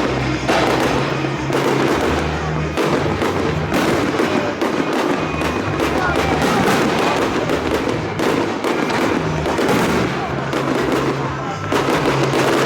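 Fireworks bursting in quick succession, bangs every second or less, over music playing on loudspeakers with steady bass notes.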